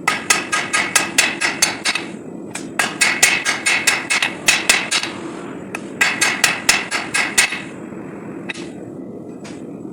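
Hand hammer striking hot 5160 steel on an anvil while forging a knife: three runs of quick ringing blows, about five a second, with short pauses between them, then two single lighter strikes near the end.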